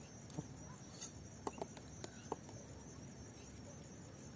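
Faint outdoor background hiss with a handful of light, scattered clicks and taps in the first couple of seconds.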